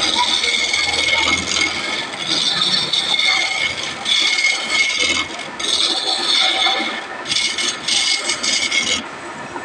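A tool scraping along wood in repeated strokes, each about one to two seconds long with short breaks between them.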